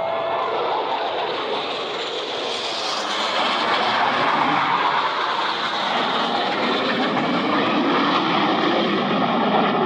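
Jet noise from Blue Angels Boeing F/A-18 Super Hornets passing in flight, a steady roar of their General Electric F414 engines that swells a little about three seconds in.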